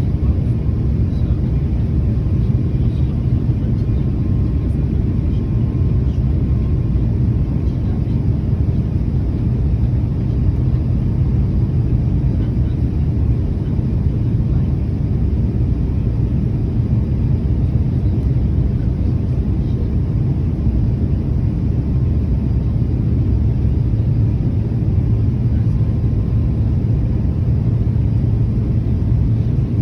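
Airliner cabin noise: the steady low rumble of the jet engines and rushing air, heard from inside the passenger cabin.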